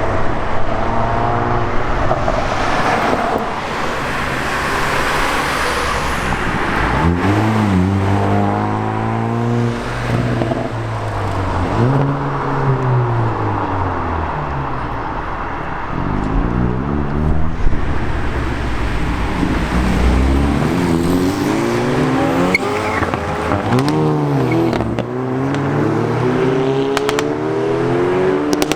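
Hyundai i30N turbocharged 2.0-litre four-cylinder engines revving and accelerating one after another, the engine pitch rising and falling several times. Sharp exhaust crackles and pops come near the end.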